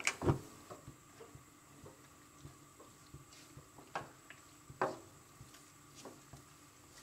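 Chicken strips frying in butter in a nonstick wok, giving a faint sizzle, with a few short knocks and scrapes from a silicone spatula stirring them. The loudest knocks come just after the start and around four and five seconds in.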